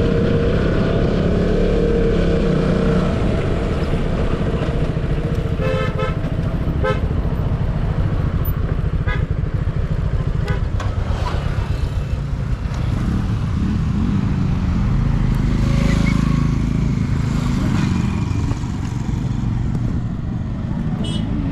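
Motorcycle engine running steadily while riding in traffic, with two short horn toots about six and seven seconds in.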